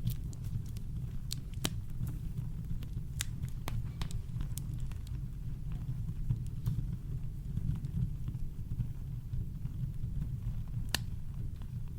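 Campfire crackling: scattered sharp pops and snaps of burning wood, several in the first few seconds, sparse in the middle and one loud pop near the end, over a steady deep rumble of brown noise.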